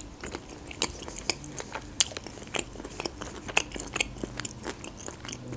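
Close-miked chewing of flaky puff pastry: crisp crunches and clicks at an irregular pace.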